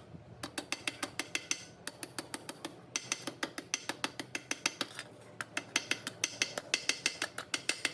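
Rapid repeated scraping strokes of a hand tool on a metal part, several a second, in short runs with brief pauses: hand work on the old machine's rusty metal.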